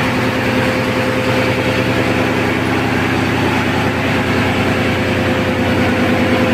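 Marine diesel engine running steadily, loud in the ship's enclosed engine room, with a constant drone and a steady hum.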